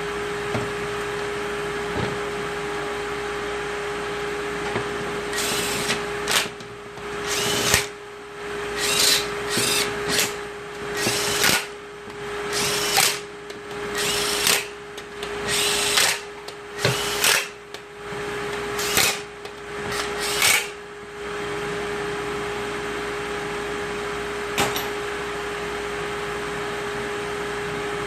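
A power tool run in about fifteen short bursts, each up to about a second long, over some fifteen seconds before it stops. A steady hum lies underneath.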